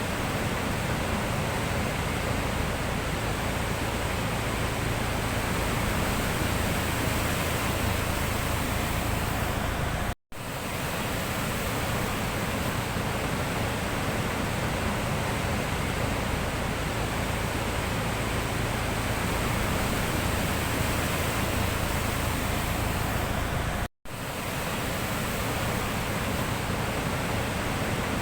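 Sea waves washing on the shore, a steady, even rush of surf, which cuts out to silence for an instant twice.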